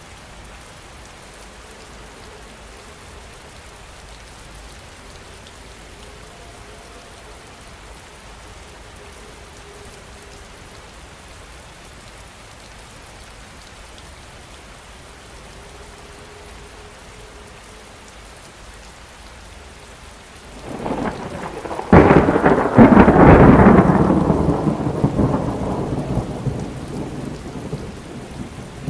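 Steady heavy rain falling. About twenty seconds in, thunder builds, breaks with a sharp crack and rumbles away slowly through the remaining seconds; the crack is the loudest moment.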